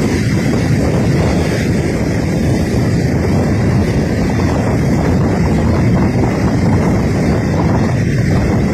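Loud, steady rush of flash-flood water, with wind buffeting the microphone.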